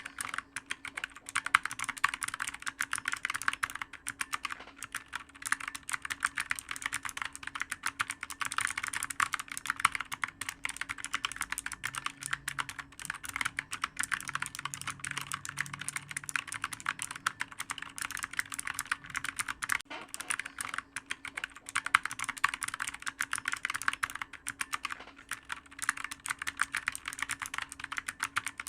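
Computer keyboard being typed on fast and without a break: a dense, irregular stream of key clicks.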